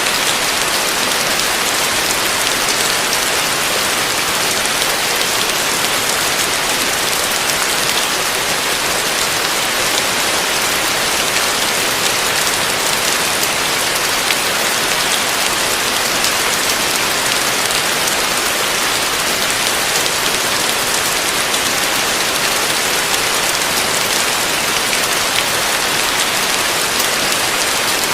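Heavy rain falling steadily: a dense, even hiss of drops with fine pattering and no let-up.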